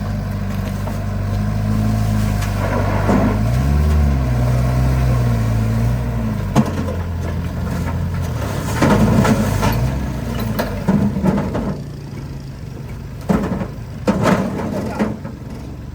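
Truck engine running, revving briefly about four seconds in and then dying down in the second half. Several short, louder noises come over it near the end.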